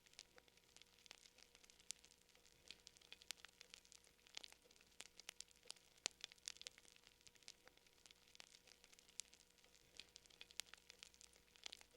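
Wood fire crackling quietly, with irregular sharp pops and snaps, some louder than the rest.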